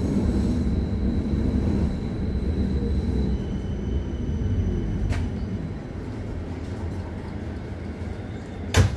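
Running noise inside a new type JK Berlin U-Bahn train, dying away as it slows into a station, with thin steady electric whine tones above the rumble. A faint click comes about five seconds in and a sharp knock near the end.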